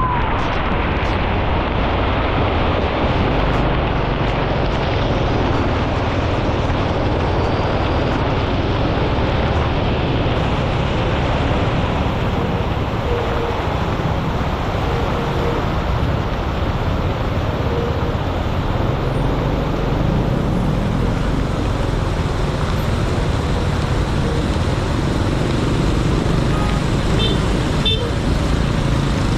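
Motorcycle riding through city traffic in the rain: a steady rush of engine, tyre and wind noise on a bike-mounted action camera, with other traffic around.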